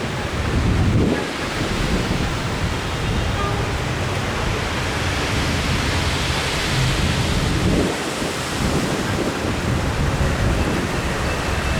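A passing train's steady rumbling noise of wheels on rails, loud and even throughout.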